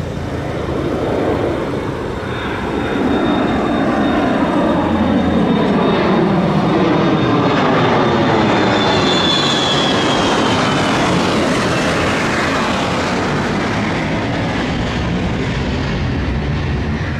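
Jet aircraft passing close by. A loud, rushing engine noise swells after a few seconds, and a high turbine whine falls in pitch as the jet goes past.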